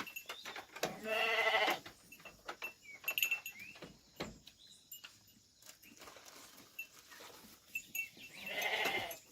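Sheep bleating twice, a wavering call about a second in and another near the end, with light knocks and shuffling in between.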